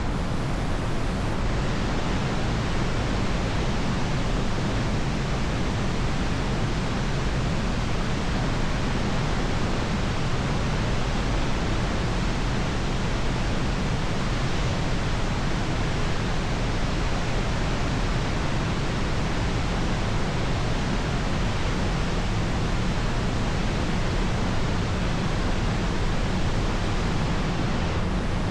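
Steady rush of wind and road noise over the camera microphone of a motorcycle riding at speed, unbroken throughout.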